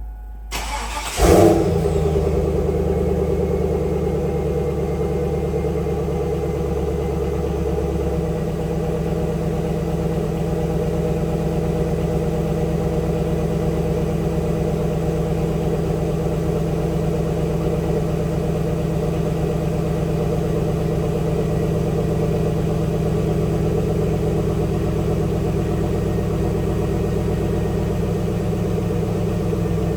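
2002 Pontiac Trans Am's 5.7-litre LS1 V8 cold-starting: a brief crank, catching about a second in with a quick rev, then settling into a steady cold fast idle. The idle note shifts slightly about eight seconds in.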